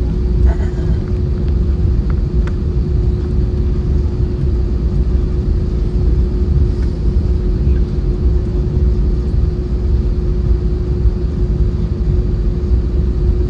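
Cabin noise inside an Airbus A320-232: a steady, deep rumble from its IAE V2500 turbofan engines and airflow, with a constant hum over it.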